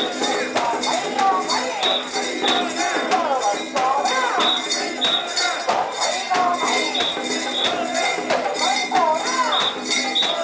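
Bells on a Japanese mikoshi (portable shrine) jangling in a steady rhythm as the carriers shake the shrine along. The carriers' rhythmic shouted chants run under the bells.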